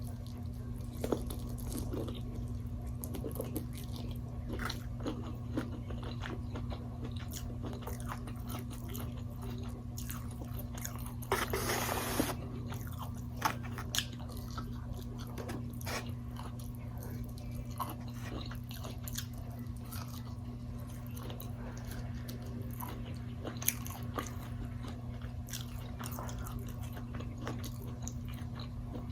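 Close-up mouth sounds of eating crunchy food: biting and chewing, with many small crunches and a louder, noisier crunch lasting about a second around the middle. A steady low hum runs underneath.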